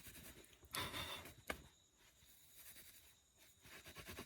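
Hand-work on a piece of fire-lighting material: a short scraping rustle about a second in, then one sharp click, then quiet.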